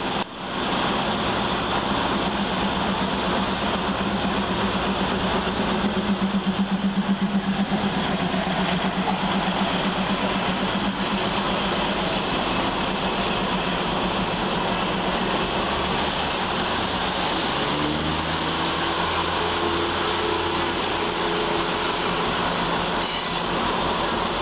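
Stainless-steel passenger train carriages running past close by on the adjacent track, a steady rumble of wheels on rails with a diesel engine hum. About seventeen seconds in, a diesel engine note rises in pitch as a train accelerates.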